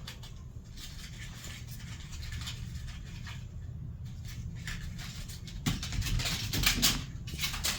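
A kitten scrambling after a thrown toy: light scratching and patter, with a cluster of sharp clicks and rustles near the end.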